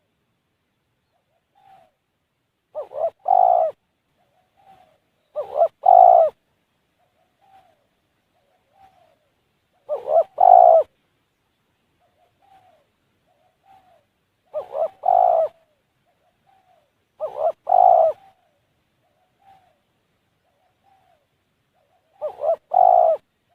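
Spotted dove (tekukur) cooing: six loud phrases, each a couple of short notes leading into a longer coo, repeated every few seconds, with faint single notes between them.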